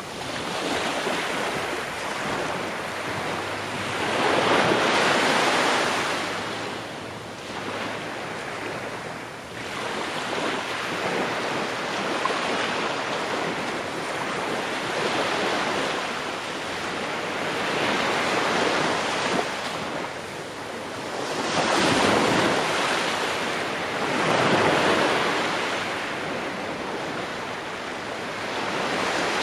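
Ocean waves breaking and washing up the shore, the surf swelling and falling in broad surges every few seconds.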